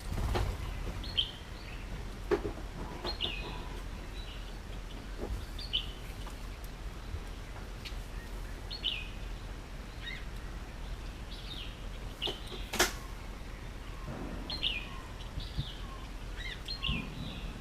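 Indian ringneck parakeet giving short, high chirps every second or two, with a few sharp clicks; the loudest click comes about thirteen seconds in.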